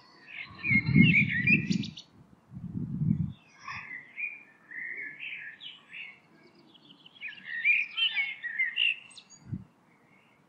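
A songbird singing in three bursts of quick twittering, chirping phrases. Two low rumbling bursts come in the first three seconds and are the loudest sounds, and a short low thud comes near the end.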